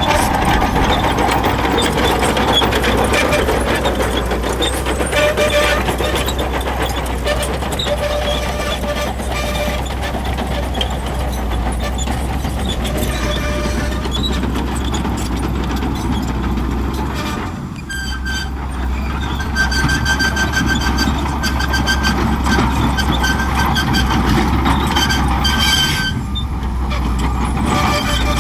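Shantui crawler bulldozer working: its diesel engine runs steadily under load while the tracks clatter, with intermittent high-pitched squeals, and the engine note dips briefly twice.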